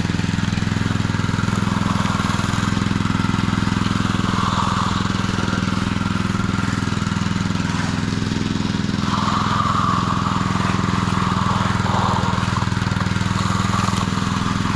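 Petrol engine of a concrete power trowel running steadily at constant speed as it is worked across the fresh slab.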